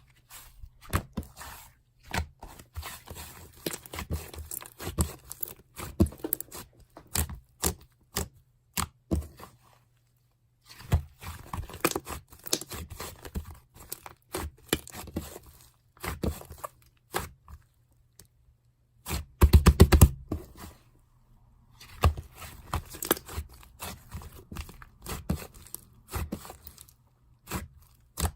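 Hands playing with slime: irregular sticky clicks, crackles and squelches as it is pressed, stretched and folded. The handling pauses briefly twice, with a loud cluster of crackles after the second pause.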